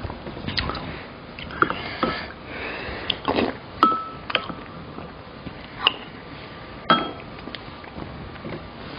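Close-miked eating sounds: chewing and slurping, with several sharp clicks of utensils against dishes, one ringing briefly about four seconds in.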